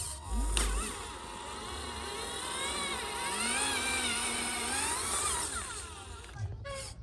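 Motor whine from radio-controlled construction models, rising and falling in pitch as they are driven. There is a brief low thump about half a second in.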